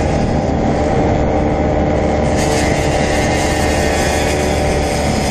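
Dirt bike engines running at a steady pitch, several at once, with no sharp revs.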